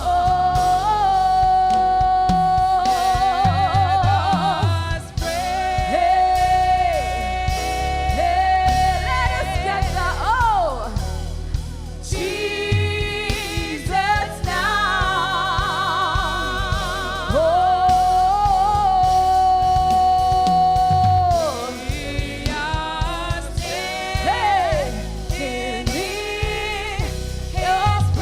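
Gospel worship song: long sung notes held with vibrato, twice for several seconds, linked by short gliding melodic runs, over a band with steady bass.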